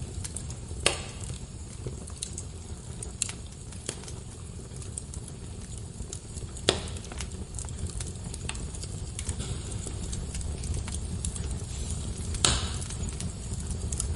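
Wood fire burning in a fireplace: a steady low rumble of the flames with scattered crackles and pops, sharper pops about a second in, midway and near the end.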